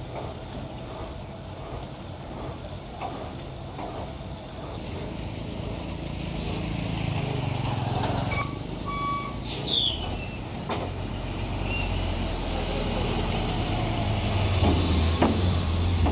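Heavy diesel truck engines running and growing louder and steadier as they work on a steep wet climb. About halfway through, a couple of short reversing beeps sound, followed by a brief hiss.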